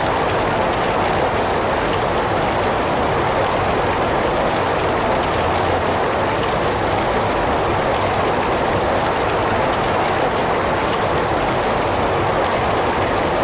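Heavy rain falling steadily, an even hiss of rainfall with no breaks or separate drops standing out.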